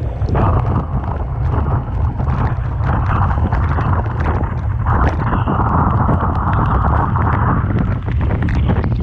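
Typhoon-force wind buffeting the microphone with a deep rumble, over rough sea and breaking waves, with scattered sharp crackles. About five seconds in, a louder wash of water, likely a wave breaking, rises and lasts a couple of seconds.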